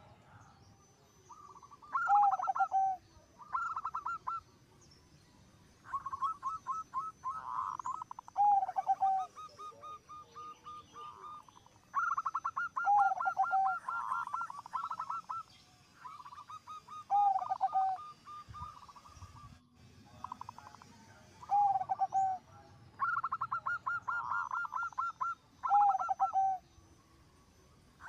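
Zebra dove (perkutut) cooing song: phrases repeated every few seconds, each a fast rattling run of short notes that ends in lower, rounder coos, with short pauses between.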